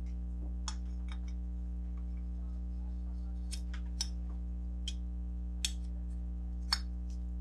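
Scattered light clicks and clinks of small metal parts and tools being handled on a workbench during a water pump rebuild, about nine in all, the loudest two near the end, over a steady low electrical hum.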